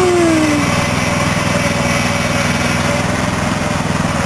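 Small tractor engine running steadily at an even pitch. A brief falling tone sounds right at the start.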